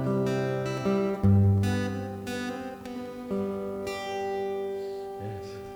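Acoustic guitar playing the closing chords of a song: several plucked and strummed chords that ring out and slowly fade away.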